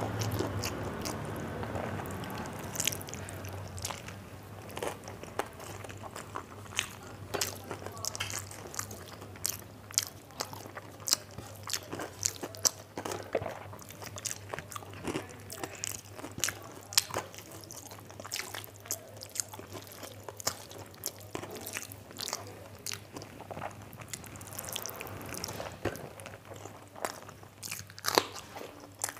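Close-miked eating: a person chewing a mouthful of rice, with many short, sharp mouth clicks and smacks at irregular intervals. A faint steady hum runs underneath.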